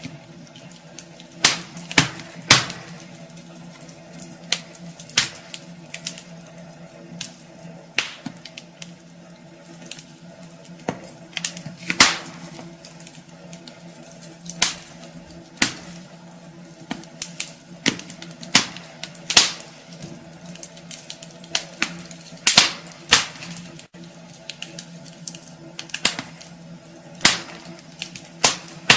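Wood fire crackling in a fireplace: irregular sharp pops and snaps, some much louder than others, over a steady low hum.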